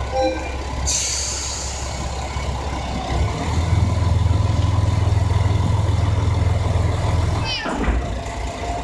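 JR Shikoku 2000 series diesel railcar pulling away: a sharp hiss of air about a second in as the brakes release, then from about three seconds the diesel engine's low drone swells and holds under power. A brief falling squeal near the end.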